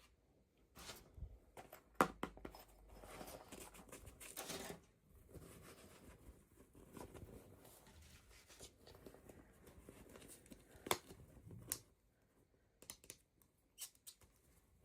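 Toy packaging being torn open and handled by hand during an unboxing: irregular tearing and crinkling with a few sharp clicks, the loudest about two seconds in and again near eleven seconds.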